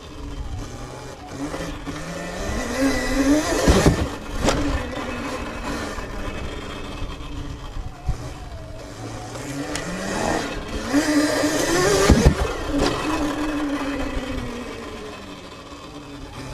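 Sur-Ron electric dirt bike's motor whining, rising in pitch as it speeds up and then falling away as it slows, twice. Each run peaks with a few sharp knocks and a rush of noise.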